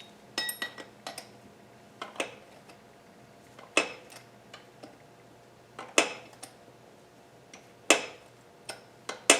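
Metal hand tools clinking against metal: a series of sharp, separate clinks with a short ring, spaced a second or two apart, as a wrench is worked on an engine bolt.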